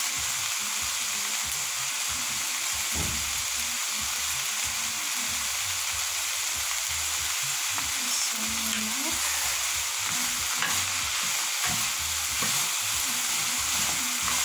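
Sliced vegetables (carrots, green beans, capsicum and onions) sizzling steadily in a frying pan over high heat, with a few light knocks of a wooden spoon as they are stirred.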